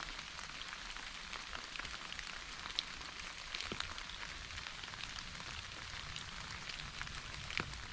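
Steady rain falling: a continuous hiss with scattered, louder individual drops ticking through it.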